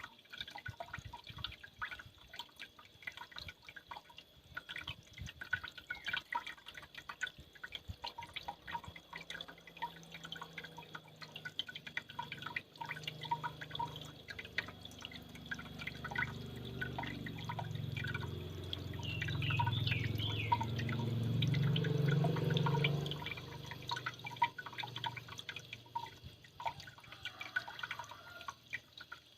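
Water dripping and trickling from a small homemade waterfall, many quick drops in an uneven patter. A low rumble builds through the middle and fades again about three-quarters of the way in.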